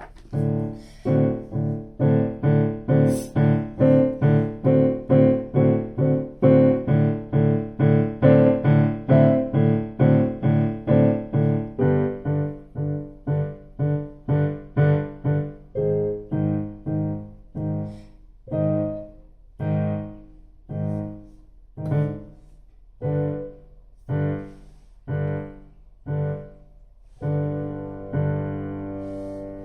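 Piano music: repeated chords struck about twice a second, slowing to about once a second in the second half and ending on a held chord.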